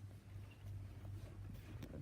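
Quiet room tone with a steady low hum and a few faint light clicks near the end.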